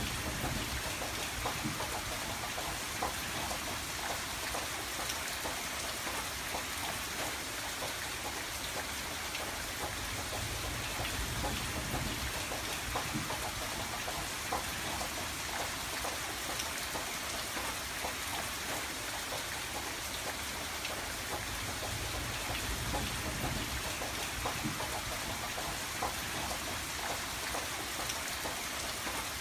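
Steady rain falling on a window, with many small drop ticks over a dense even hiss and a low rumble underneath.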